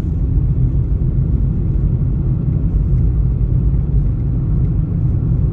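Loud, steady low rumble with no voice or tune in it.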